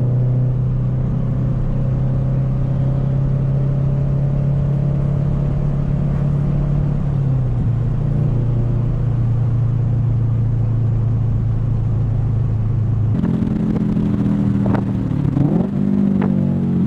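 Scion FR-S's FA20 flat-four, breathing through an ISR catback exhaust and catless Tomei headers, running steadily under way with a constant drone. About 13 seconds in the note turns fuller. Near the end the pitch briefly drops and swings back up.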